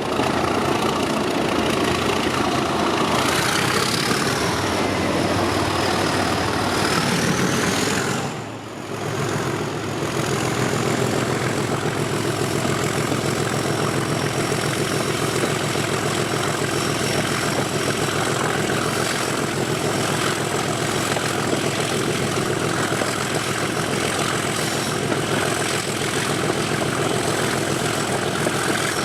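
Class 37 diesel locomotive's English Electric 12CSVT engine running, with a high turbocharger whistle that climbs in pitch over a few seconds and then holds. The sound dips briefly about eight seconds in, then carries on steady.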